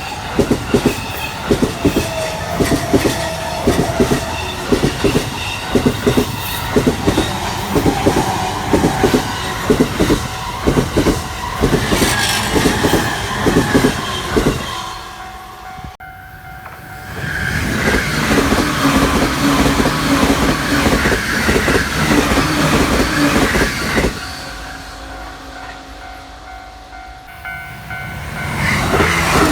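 Electric trains passing a level crossing at speed. A fast, even clickety-clack of wheels over rail joints runs for about fifteen seconds. After a brief lull, a second train passes with a higher whine, and the noise rises again near the end as another train approaches.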